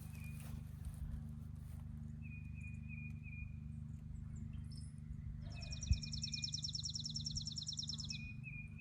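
Birds calling outdoors: a short high chirp repeated in little runs, and from about five and a half seconds in a rapid high trill lasting about three seconds. A steady low rumble sits underneath, with a single soft knock near the middle.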